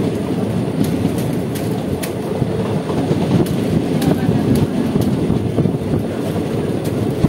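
Express passenger train running at speed, heard from the open door of a coach: a steady rumble of the wheels on the track with scattered sharp clicks.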